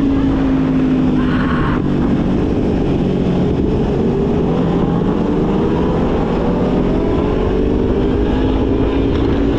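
Sport bike engine pulling along at speed, with wind buffeting the microphone; the engine pitch drops about two seconds in, then climbs steadily as the bike accelerates.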